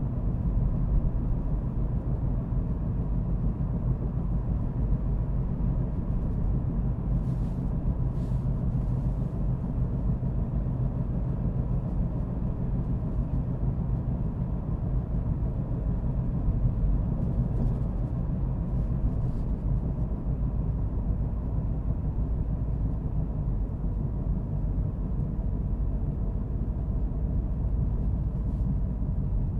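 Car driving at a steady speed: a continuous low rumble of road and engine noise, with a few faint ticks.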